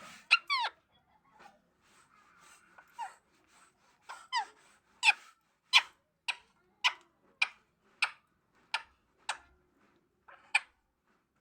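Pet parrot giving a run of short, sharp calls, each falling in pitch, repeated about every two-thirds of a second for several seconds with quiet gaps between.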